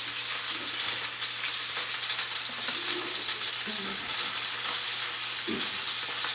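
Skin-on chicken legs searing in a hot pan, with a steady sizzle.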